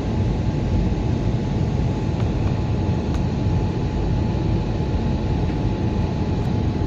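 Steady cabin roar of an Airbus A320 in flight, the low rush of its engines and airflow, with a faint steady tone above it.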